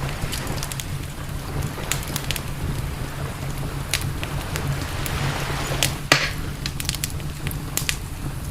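Campfire of burning wood crackling with many sharp, irregular pops over a steady low rumble; noise swells briefly with a louder pop about six seconds in.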